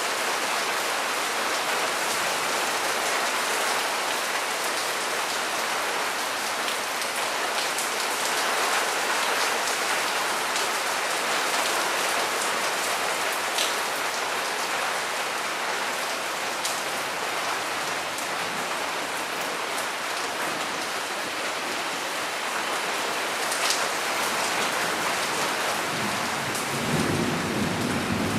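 Steady rain pouring down, with a few sharper drop hits, and a low rumble of thunder near the end.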